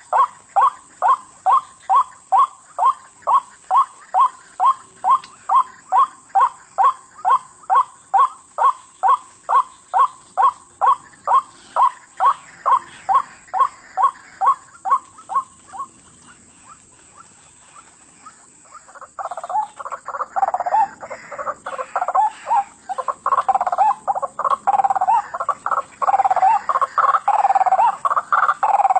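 White-breasted waterhen calling: a monotonous, rhythmic call repeated about three times a second for some fifteen seconds, then after a short lull a louder, busier stretch of overlapping calls.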